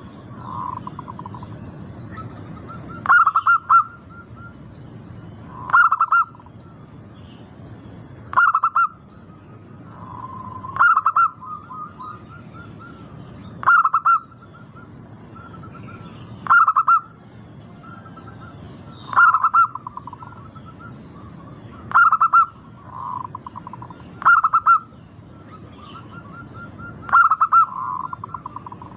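Zebra dove (perkutut) singing. It repeats its short trilling coo phrase about every two and a half seconds, the steady rhythmic song of a bird in full voice.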